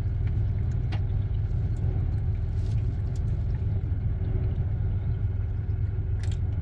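Steady low rumble heard from inside a car sheltering from extreme wind, with a couple of faint clicks.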